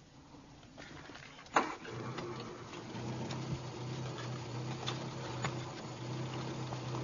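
Car engine started: a sharp click about one and a half seconds in, then the engine running steadily at idle.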